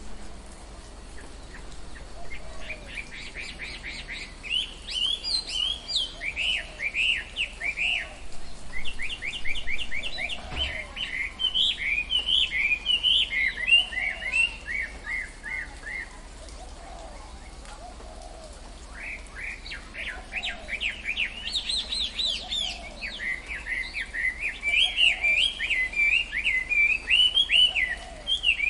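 Songbirds singing in rapid chirping trills, in two long bouts with a short lull between, over a faint repeated low call from another bird.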